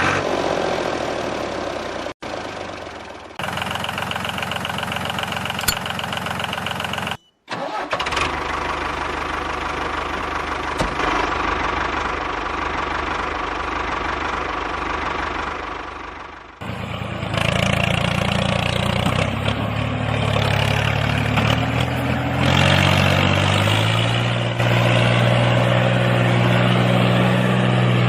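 Small diesel engine running, heard in several short clips cut abruptly together; in the last part its pitch climbs in steps as it speeds up, then holds steady.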